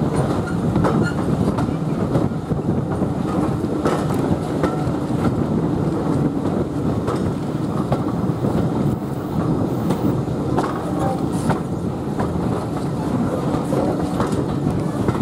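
Steam-hauled heritage passenger carriage running along the line, heard from an open carriage window: a steady rumble of wheels on rail with scattered clicks and clatter as the wheels cross rail joints.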